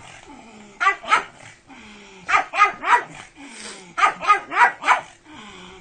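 Pug barking in three quick bursts of two to four sharp barks each, with lower whining between the bursts.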